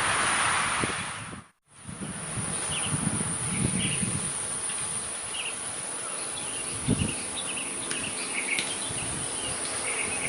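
A steady high-pitched insect drone, with short chirps and low road-traffic rumble beneath it; the sound drops out briefly about one and a half seconds in.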